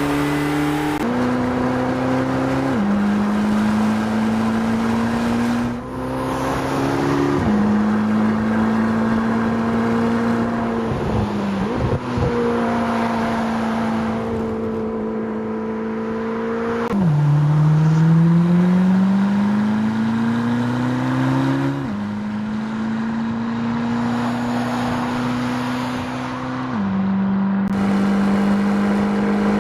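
Twin-turbo LT7 V8 of a Chevrolet Corvette ZR1X running, held at mostly steady engine speeds in a string of cut-together passages, the pitch jumping abruptly from one to the next. In the middle the note drops and then climbs steadily in one long pull as the car accelerates.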